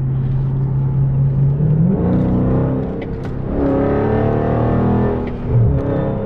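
Dodge Charger Scat Pack's 392 HEMI V8 running steadily, then revving up hard about one and a half seconds in, its note rising, dipping briefly around three seconds in, and climbing again before easing off near the end.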